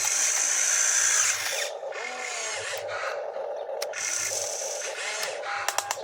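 Small electric motors of a radio-controlled construction toy whirring, with brief breaks where they stop and start, and a few sharp clicks near the end.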